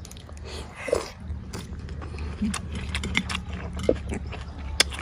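A man chewing a mouthful of fertilized duck egg with fresh herbs and chili, close to the microphone: wet mouth clicks and smacks at an uneven pace.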